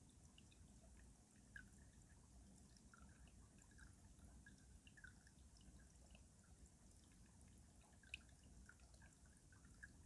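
Faint trickling and dripping of stream water running beneath ice, with many small scattered drips over a low rumble. Two drops stand out a little louder, about a second and a half in and about eight seconds in.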